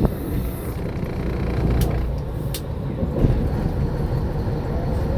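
Fishing boat's engine running steadily at idle, a low continuous rumble, with a couple of faint sharp clicks about two seconds in.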